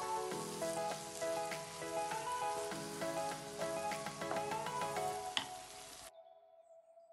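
Okra masala sizzling in a nonstick frying pan as it is stirred with a wooden spatula, over background music. The sizzling cuts off abruptly about six seconds in, leaving only a faint held music note.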